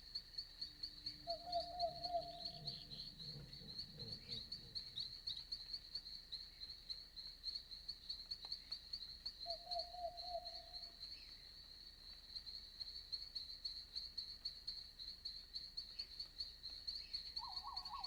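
Night insects, most likely crickets, chirping in a steady, fast-pulsing high trill. Two short, lower trilled calls come from another night animal, one about a second and a half in and one about nine and a half seconds in.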